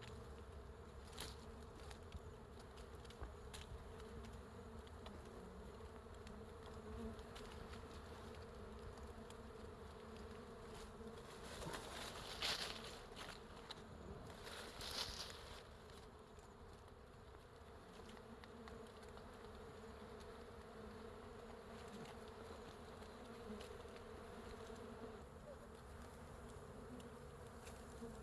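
Bees at a wild hive, humming steadily and faintly. Two short, louder rushes of noise come about twelve and fifteen seconds in.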